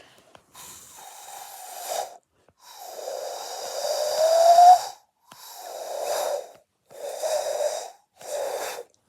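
Five breathy, airy blows from a person trying to make an owl hoot. Only a weak tone comes through under the rush of air; the second and longest blow is the loudest and rises in pitch near its end. The hoot doesn't properly sound: a failed owl-hoot attempt.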